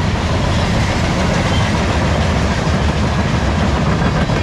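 Freight cars of a manifest train rolling past close by: a steady, loud rumble and rattle of steel wheels on the rails.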